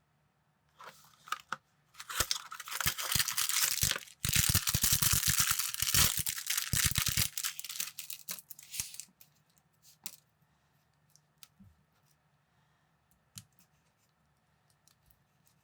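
Plastic packaging crinkling and tearing for several seconds, followed by scattered small clicks of plastic building bricks being handled and snapped together.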